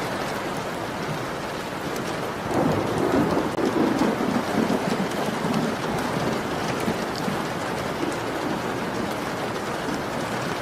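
Steady heavy rain pattering, with a roll of thunder that rumbles in about two and a half seconds in, swells, and fades away over the next few seconds.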